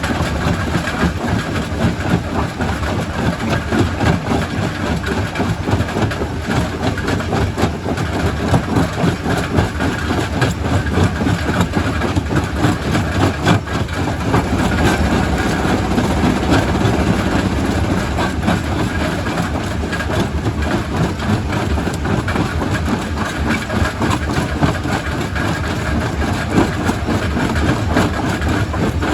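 Quarry primary rock crusher running: a steady heavy mechanical din with constant clattering knocks of rock being broken. The low rumble grows heavier about halfway through.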